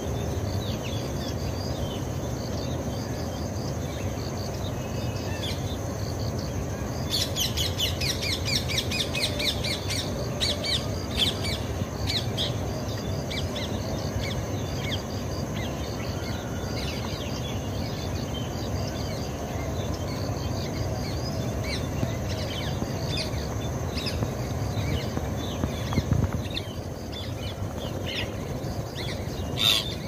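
Birds chirping and calling, with a quick, dense run of rapid calls about seven seconds in and scattered single chirps after that, over a steady low background noise.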